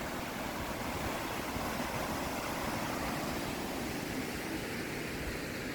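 Steady rush of water flowing from a dam.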